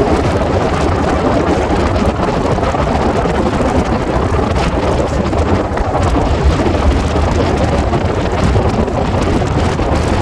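Steady running noise of a moving passenger train, a dense rumble with wind rushing over the microphone.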